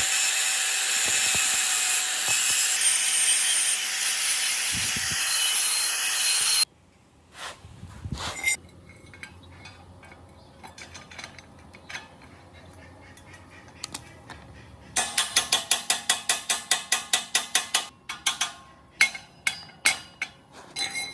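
Workshop tool noise: a loud, steady power-tool hiss with a faint whine in it, which cuts off suddenly about six and a half seconds in. Quieter metal handling clicks follow, then a fast, regular run of mechanical clicks lasting about three seconds, and a few slower clicks near the end.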